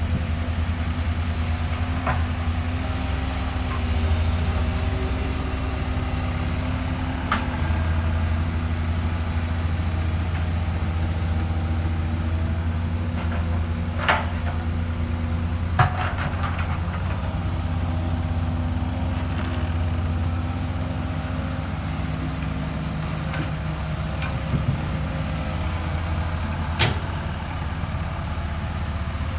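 Excavator's diesel engine running steadily, with several sharp knocks scattered through, the loudest about halfway through and near the end.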